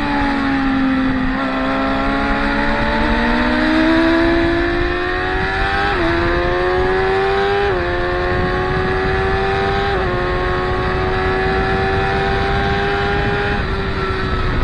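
Sport motorcycle engines at track speed: the pitch drops off as they slow for the corner, then climbs hard under acceleration, with sudden dips about six and eight seconds in as the gears shift up.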